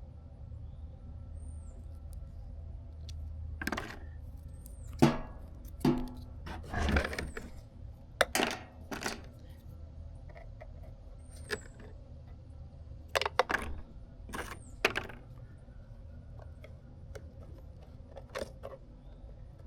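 Irregular clicks, clinks and light knocks of small hard parts and tools being handled on a work surface, over a steady low hum.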